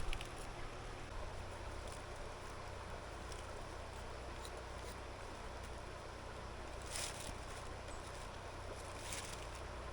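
Steady rushing of a river, with brief rustles about seven and nine seconds in.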